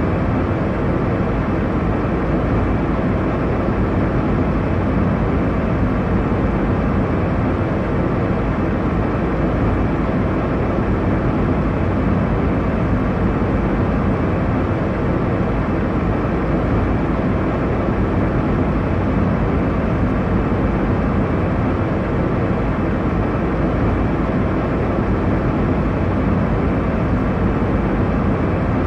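Airliner cabin noise: a steady rumbling hiss of jet engines and airflow heard from inside the passenger cabin, even and unbroken, heaviest in the low end.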